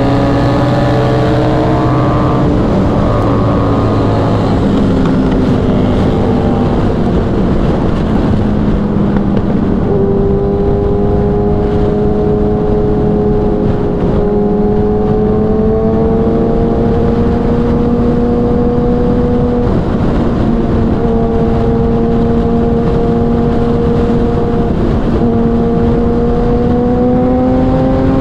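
Kawasaki inline-four sportbike engine pulling at highway speed with a rush of wind underneath. The engine note eases down over the first few seconds, holds nearly steady, and climbs again near the end.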